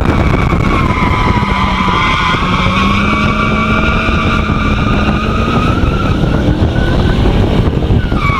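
Dodge car driven hard through a cone course: the tires squeal in one long continuous squeal that creeps slightly up in pitch, over the engine's steady low running. A fresh squeal starts near the end.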